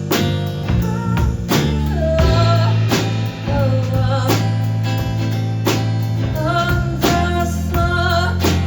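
Live band music: a singer's voice over guitar, bass and drums.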